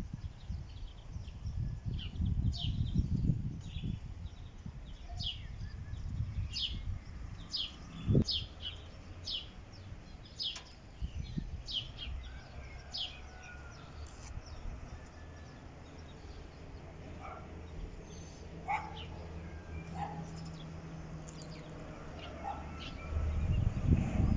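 Birds chirping: many short, quick falling chirps, busiest in the first half and thinning out later, over a low rumble of outdoor noise. A single thump about eight seconds in.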